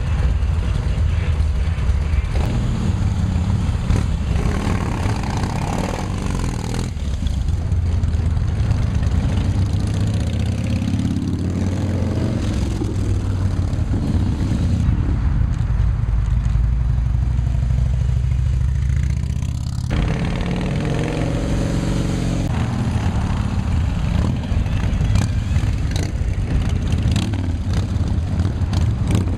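Several motorcycles running and pulling away one after another, with steady engine rumble and bikes revving as they pass, two passes standing out about a third and two-thirds of the way through.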